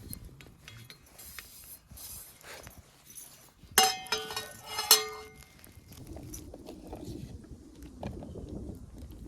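Metal cooking gear clanking twice, about a second apart, each strike ringing briefly, among a few lighter clicks and knocks.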